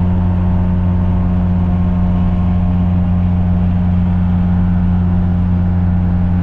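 Small two-stroke Daihatsu engine running steadily under way at a constant note, a loud low hum that neither rises nor falls.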